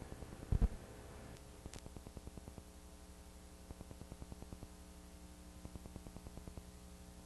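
Faint steady hiss and hum of an old recording with no programme on it, with rapid faint ticking throughout and one short thump about half a second in.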